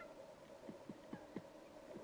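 Woodpecker pecking at wood: a run of four soft, low knocks about a quarter second apart, over a faint steady hum.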